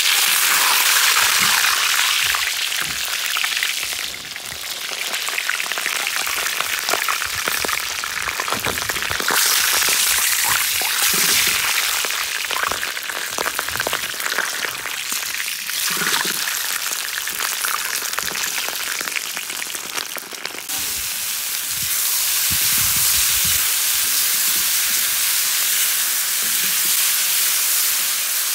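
Meat sizzling hard in hot fat in a cast-iron kazan as a skin-on pork knuckle is seared and turned, with the spatula knocking and scraping on the iron. About twenty seconds in the sound changes abruptly to sliced carrots and onions frying as they are stirred.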